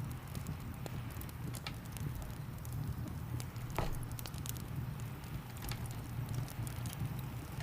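Wood fire crackling, with scattered sharp pops, the loudest about four seconds in, over a steady low rumble and the even hiss of rain.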